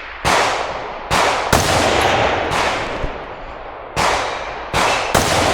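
Gunfire: a string of about eight shots at an uneven pace, some close together and some a second apart, each trailing a long echo.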